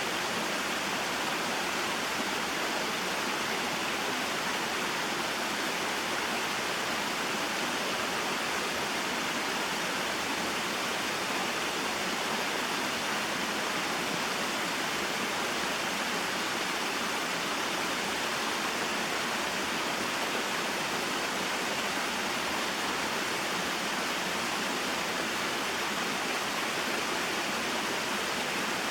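Small waterfall and stream: water falling and flowing in a steady, even rush.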